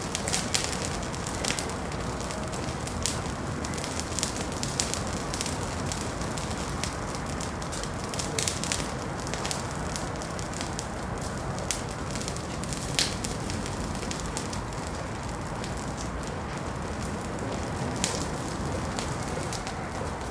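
Wood fire burning in a fireplace: a steady low rush of flame with irregular sharp crackles and pops, one louder pop about two-thirds of the way through.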